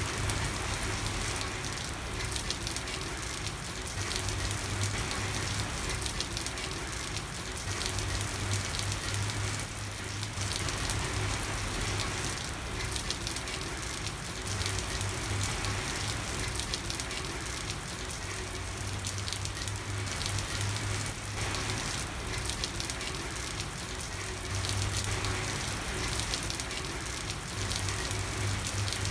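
Steady rain falling on a street, a dense even patter of drops, with a low hum underneath that swells and fades every few seconds.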